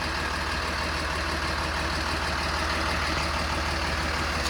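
Bus engine idling steadily, with a continuous hiss over the low engine beat, while the chassis air-conditioning compressor runs and is being charged with refrigerant.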